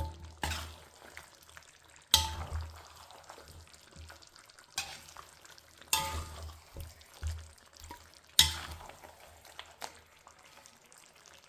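Metal spatula stirring in a karahi of sizzling food, clanking sharply against the pan about five times, each clank ringing briefly.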